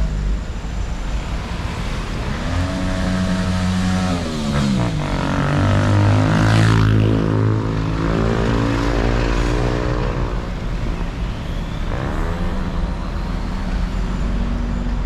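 Road traffic: several motor vehicles with engines running pass close by one after another, their engine pitch rising and falling as they go. They are loudest around the middle, over a steady low rumble.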